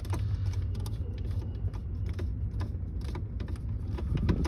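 Scattered small clicks and creaks of plastic dashboard parts being handled around a just-installed instrument cluster, over a steady low hum.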